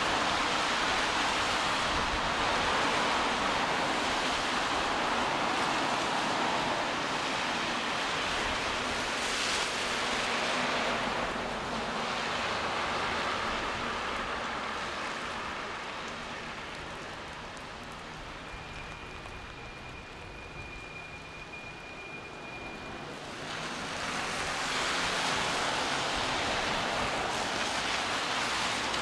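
Steady rain falling on a wet city street, a constant hiss. It grows quieter and duller for several seconds in the middle, then swells back to its earlier level.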